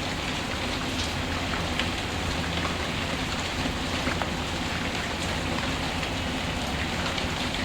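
Steady rain falling, with a few scattered sharp crackles from a wood fire in a fireplace.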